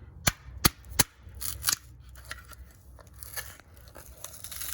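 Three sharp clicks in the first second, then scattered crunching and crackling of something being handled.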